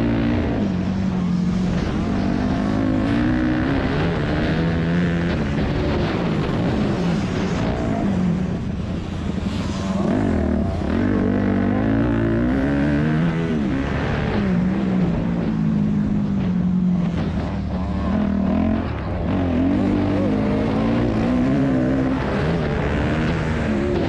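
2001 Yamaha YZ250F's four-stroke single-cylinder engine running hard on a motocross track. It revs up and drops back again and again, every couple of seconds, as the throttle is opened and shut through the corners and jumps.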